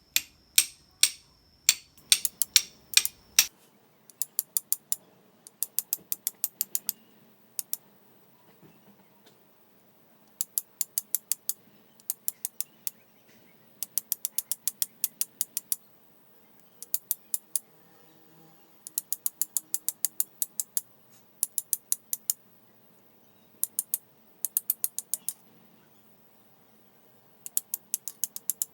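Flint being struck with a fire steel to throw sparks onto char cloth: sharp metallic clicks in quick runs of about five to eight strikes, several a second, with short pauses between runs.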